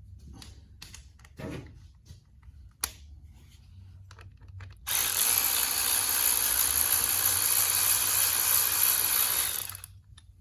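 A power drill-driver fitted with a 12 mm socket runs steadily for about five seconds, spinning the loosened bolts out of the tractor's water pump. Before it starts there are a few light clicks and knocks as the tool is handled.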